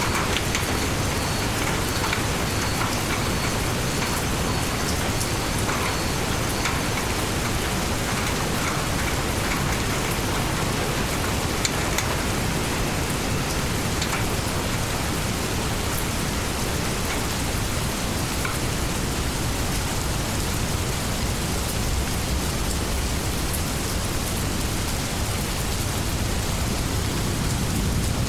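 Steady rainstorm: heavy rain falling on leaves in an even hiss, with scattered sharper drip ticks.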